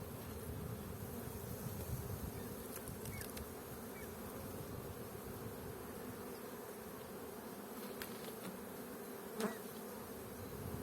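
A honeybee colony humming steadily from a hive under inspection, with a short knock about nine and a half seconds in.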